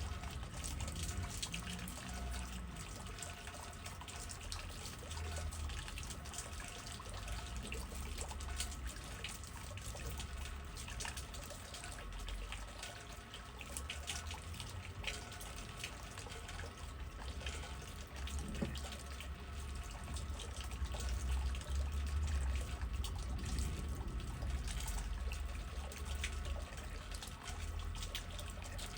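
Steady rain with many small drips and patters over a low wind rumble, swelling a little after about twenty seconds.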